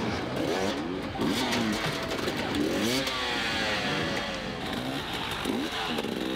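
Dirt bike engines revving hard on an extreme enduro climb, the pitch rising and falling again and again every second or so.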